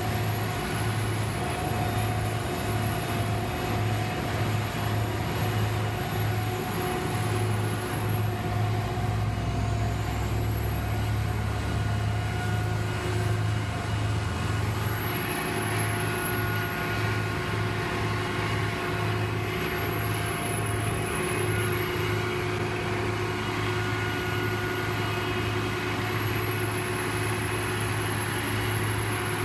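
Heavy road-repair machinery running, its engine giving a steady, even drone with a pulsing low hum and a few constant tones above it.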